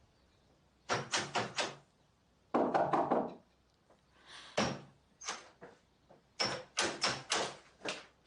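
Knocking on a locked bedroom door in bursts of several quick raps, with a heavier bang partway through.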